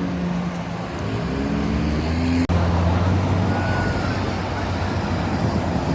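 Road traffic passing, with a truck's engine running and rising in pitch as it speeds up in the first half. The sound drops out for an instant about two and a half seconds in.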